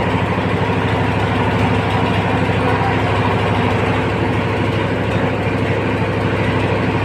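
Vehicle engine idling steadily, with an even low drone.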